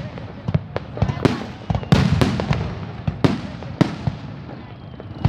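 Aerial fireworks shells bursting overhead: several sharp bangs at irregular intervals, each trailing off in a low rumble.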